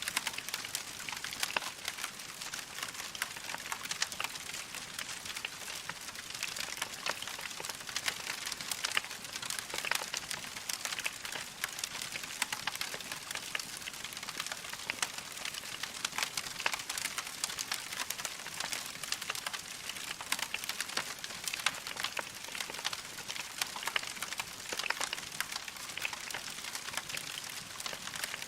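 Wood fire of burning logs crackling: a dense, continuous stream of small snaps and pops over a steady hiss.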